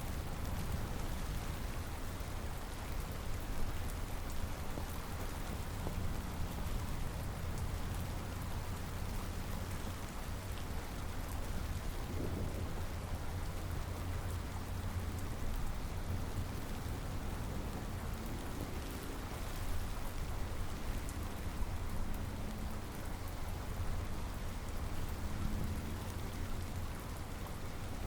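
Steady rain falling, with low thunder rumbling underneath that swells about halfway through.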